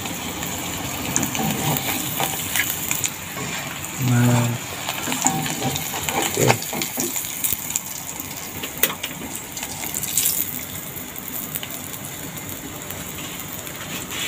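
Salted dried fish frying in hot oil in a wok, a steady sizzle with scattered crackles, while a perforated metal skimmer lifts the fish out, with a few sharp clicks of metal on the wok.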